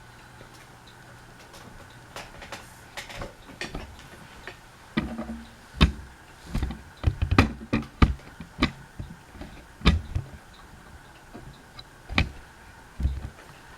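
Irregular sharp clicks and knocks, coming thick and fast in the middle, over a faint steady hum.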